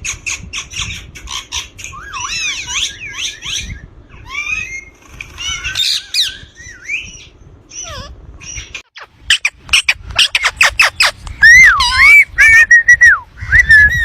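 Ringneck parakeet chattering and squawking: a run of quick chirps and short sweeping calls, turning into much louder, sharp repeated calls in the second half.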